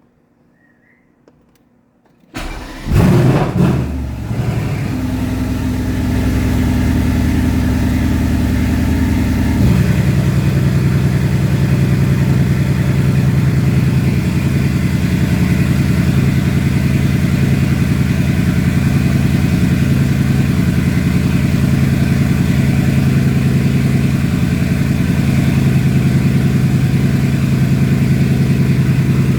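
Cold start of a 2019 Mercedes-AMG GT R's twin-turbo 4.0-litre V8: the starter cranks and the engine fires into a loud flare a few seconds in, then runs at a high idle. About ten seconds in, the idle drops to a lower, steady note.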